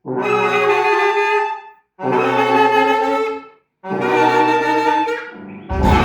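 Wind section of an improvising orchestra, brass and saxophones, playing three held chords, each about a second and a half long and cut off sharply, with short silences between. Near the end the full ensemble comes in with a lower, denser sound.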